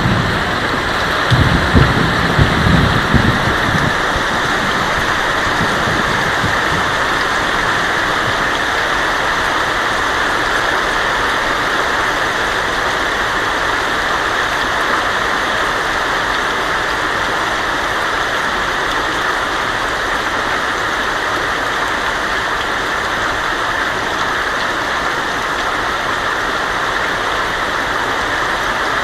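Heavy rain beating steadily on a tin roof, with a low rumble of thunder in the first few seconds.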